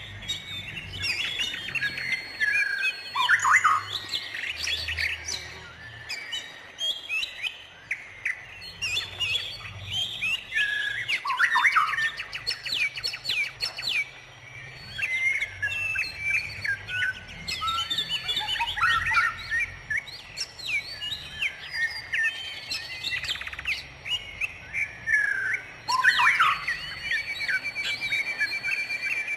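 Many wild songbirds calling and singing at once: a dense, overlapping chorus of chirps, quick falling notes and trills, with no single bird standing out.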